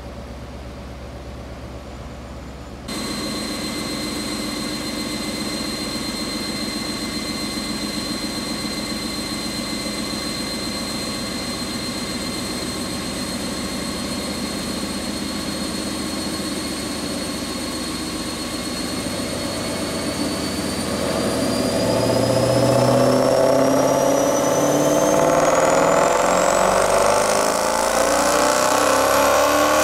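Twin-turbo 5.0 V8 of a 2015 Ford Mustang GT running on a chassis dyno: a low idle, then from about three seconds in a steady run on the rollers with a high whine. From about twenty seconds in the engine accelerates through a dyno pull, pitch climbing and getting louder.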